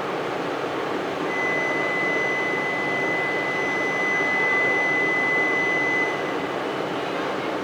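Steady rushing noise of a train running through the station. A single steady high-pitched beep sounds from about a second in and holds for about five seconds.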